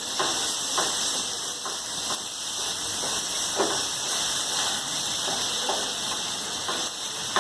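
Chicken breast and liver pieces sizzling as they fry in hot oil: a steady hiss broken by a few short clicks.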